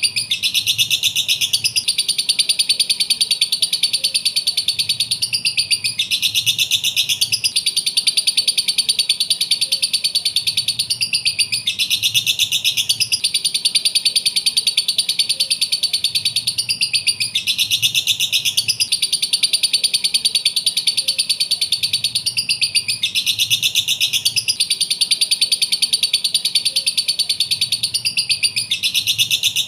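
Lovebird chattering in a rapid, high-pitched stream of chirps, the same phrase repeating about every five and a half seconds.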